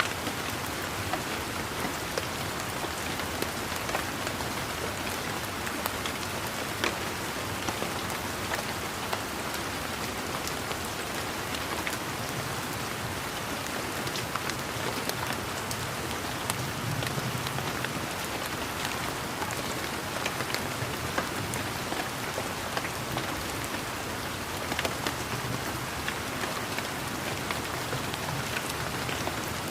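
Steady rain falling, with many individual drops ticking and pattering close by.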